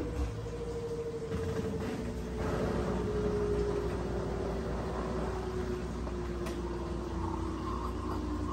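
Brastemp 17 kg washing machine's motor whining with a single tone that falls slowly in pitch as the drum spins down, over a rushing churn that grows louder about two and a half seconds in. A short knock sounds right at the start.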